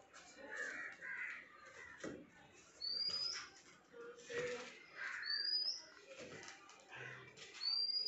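Birds calling in a quiet pause: a short rising whistle comes three times, about two and a half seconds apart, among fainter cawing-like calls and small scattered noises.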